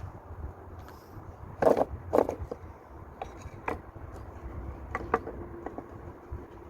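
Irregular sharp knocks and clacks, several loud ones about two seconds in and more around the middle, over a steady low rumble.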